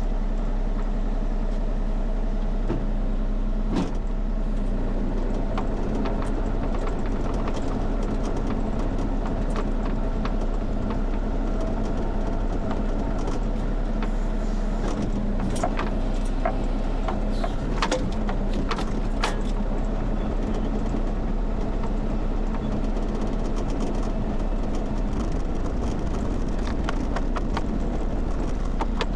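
Kubota KX040 mini excavator's diesel engine running steadily, with scattered metallic clanks and knocks, a cluster of them around the middle.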